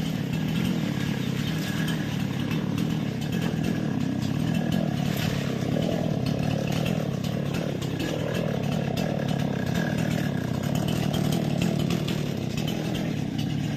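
A small engine running steadily throughout, its pitch wavering slightly now and then.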